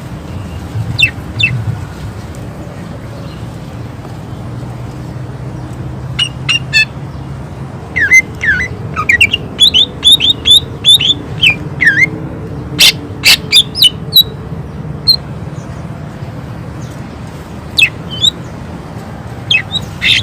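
Cucak ijo (greater green leafbird) singing in bursts of sharp whistled notes and quick downward-sweeping chirps. The bursts are densest in the middle, with a few very sharp loud snaps, over a steady low background hum.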